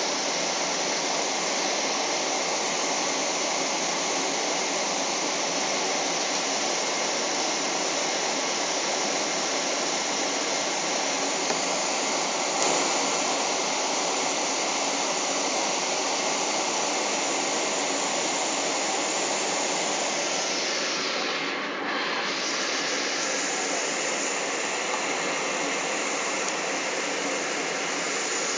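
Steady roar of cabin noise inside a Boeing 777, from the jet engines and the airflow over the fuselage, heard from a passenger seat. The upper hiss dulls briefly about three-quarters of the way through.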